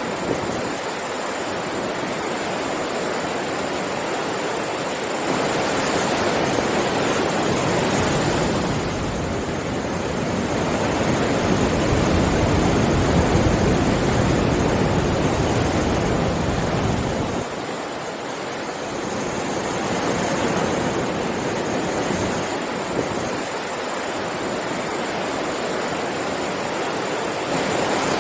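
Sea waves washing onto a beach in a continuous roar of surf that swells and ebbs, growing loudest and deepest about halfway through before easing off.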